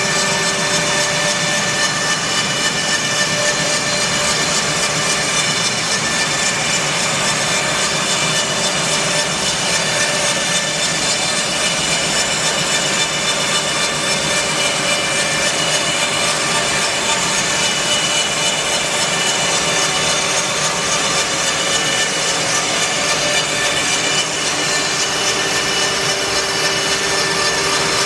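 Bandsaw mill cutting through an English larch log, with a steady rush of sawing and the mill's motor running under load.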